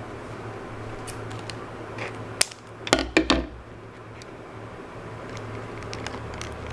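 Scattered sharp clicks and handling noises as a plush dog toy and its packaging are handled, with a short louder cluster of clicks about two and a half to three and a half seconds in, over a steady low hum.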